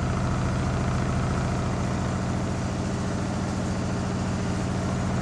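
Washing machine drum in its final spin at high speed, around 1,000 RPM, giving a steady low hum with a fast pulsing throb underneath.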